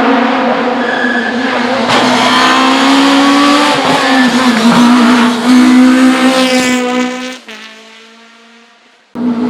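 Historic rally car's engine at hard throttle on a special stage, its pitch climbing and dropping through gear changes, then fading away as the car drives off. The sound cuts off suddenly near the end to another engine running loud.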